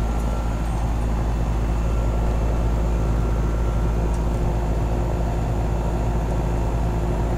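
Goodman heat pump outdoor unit running in heat mode: a steady hum from the compressor with the condenser fan blowing. Its outdoor coil is frosted over but the unit has not yet gone into defrost.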